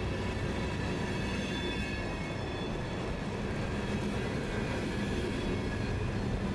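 Train running on the rails: a steady rumble with thin, steady high whining tones above it.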